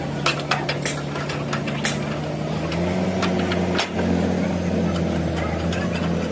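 A vehicle engine running steadily, its pitch rising a little and getting louder about halfway through, with scattered sharp metallic clicks over it.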